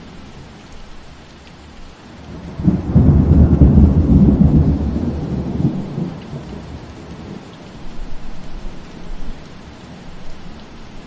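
Steady rain falling, with a deep rumble of thunder that swells suddenly about three seconds in and rolls away over the next few seconds.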